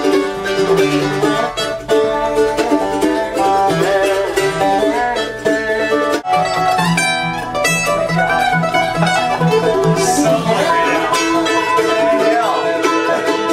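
Acoustic string-band music led by plucked strings, mandolin over acoustic guitar, with a brief break about six seconds in.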